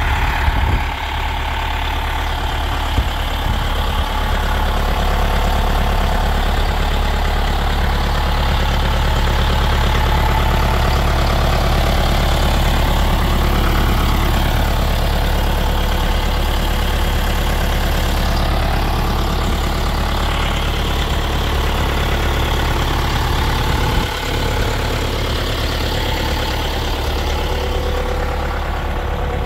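John Deere 6110 tractor's diesel engine running steadily, a loud, even low hum.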